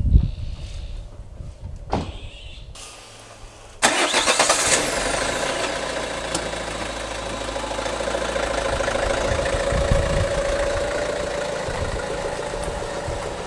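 Pressure washer starting up suddenly about four seconds in, then running steadily with a constant hiss of spray and a steady motor tone.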